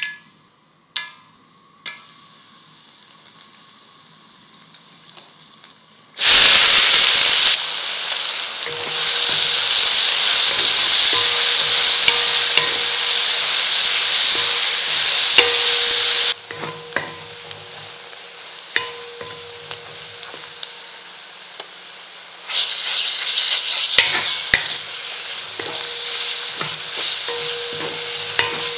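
A few light clicks as whole spices go into oil in a brass kadai. About six seconds in, sliced onions and dried red chillies hit the hot oil with a sudden loud sizzle. The frying carries on while a wooden spatula stirs, knocking and scraping against the pan; the sizzle drops lower partway through and picks up again later.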